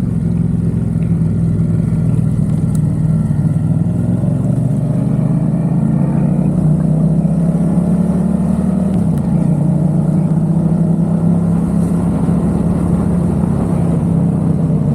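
Yamaha XSR700's parallel-twin engine breathing through a MiVV aftermarket exhaust while riding; its pitch rises slowly over several seconds, then holds steady.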